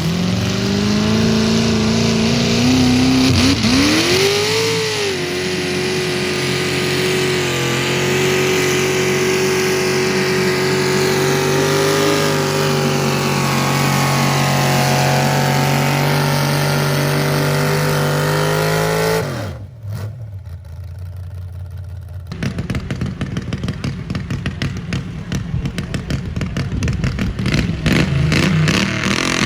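Engine of a modified pulling garden tractor revving up, then held at high, steady revs for about fifteen seconds under load. About two-thirds of the way through the revs drop off suddenly, and after a short lull the engine runs lower and rougher, with an uneven pulsing beat.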